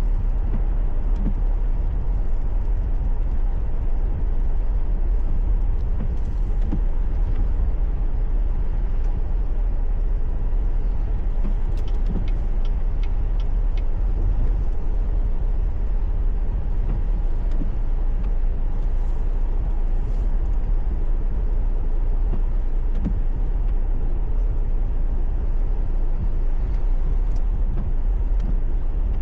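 Steady road and engine rumble of a car driving, heard from inside the cabin through a dashcam, with a short run of faint quick ticks about twelve seconds in.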